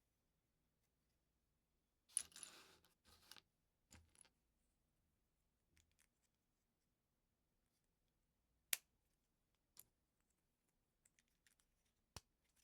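LEGO pieces being handled: a short rustle of loose plastic parts about two seconds in, then a few sharp single clicks of plastic bricks, two of them louder, later on.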